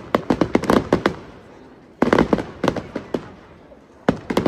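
Aerial fireworks going off in rapid volleys of sharp bangs and crackles. There are three clusters about two seconds apart, with each lull fading out before the next volley.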